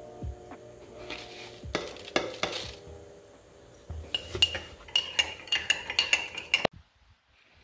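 A metal utensil stirring and scraping in cookware, then a quick run of sharp ringing clinks as it knocks against the pot or bowl. The sound cuts off abruptly about a second before the end.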